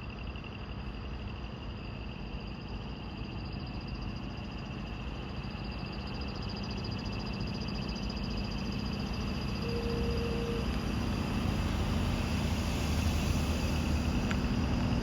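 Insects chirring steadily, with a heavy truck's engine rumbling low and growing steadily louder as it approaches. A brief faint tone sounds about ten seconds in.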